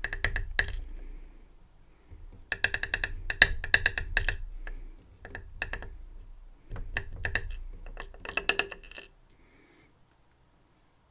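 Small metal lock parts and tools clicking and clinking in four quick bursts, each click ringing briefly, as a Medeco M3 lock is worked apart by hand; it falls quiet about nine seconds in.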